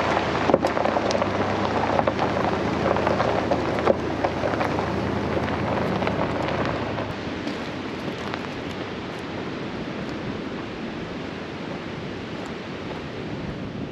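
Full-size pickup truck crawling up a steep gravel road in four-wheel drive: tyres crunching and crackling on gravel over a low engine hum, which fades about halfway through.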